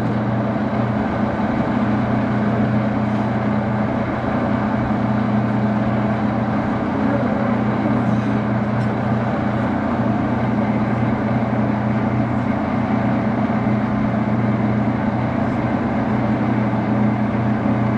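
Metal lathe running steadily with an even motor and drive hum that does not change.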